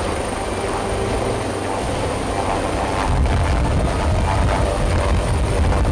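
Helicopter running steadily overhead, its rotor and engine giving a dense rumble that grows heavier about halfway through.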